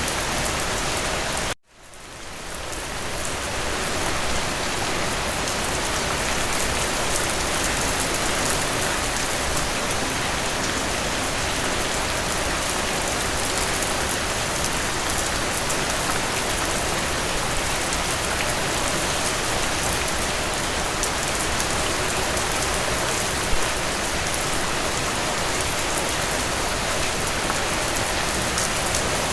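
Steady rain falling, an even hiss of drops on a surface. About a second and a half in it cuts out abruptly and fades back up over a couple of seconds, then runs on evenly.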